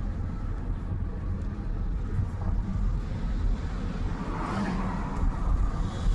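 Car running on the road, heard from inside the cabin: a steady low engine and road rumble, with a brief swell of noise about four and a half seconds in.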